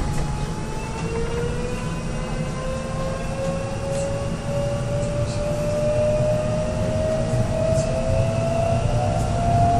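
Korail Line 3 electric subway train accelerating: its traction motor whine rises steadily in pitch over a low rumble from the running gear, with a few faint ticks.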